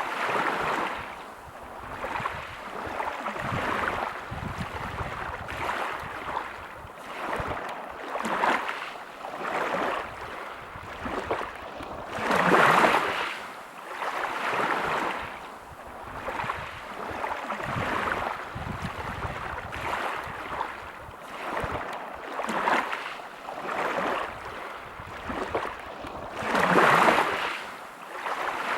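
Small waves breaking on a pebble beach and washing back, surging and fading every couple of seconds, with two larger waves breaking about halfway through and near the end.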